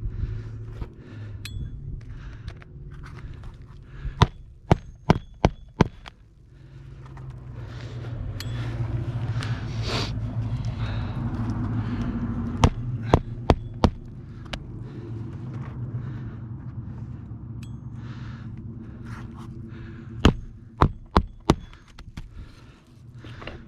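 Footsteps and scuffing on an asphalt shingle roof over a low steady hum, with three short runs of sharp knocks, four to six in quick succession each.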